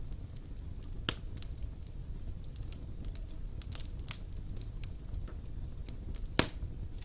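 Wood fire burning in a fireplace with a low steady rumble and scattered crackles, one loud pop about a second in and a louder one near the end.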